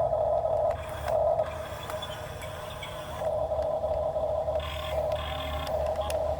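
Heavy machinery working: a low engine rumble with a steady high whine that cuts out and comes back several times.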